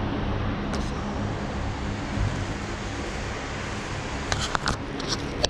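Steady low mechanical hum, with a few sharp clicks and taps about four to five seconds in.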